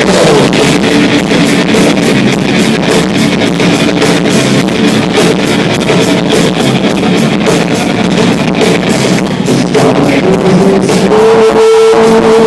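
Live rock band playing loud: electric guitars over a driving drum kit beat with constant cymbal hits. Near the end a single high note is held steadily over the band.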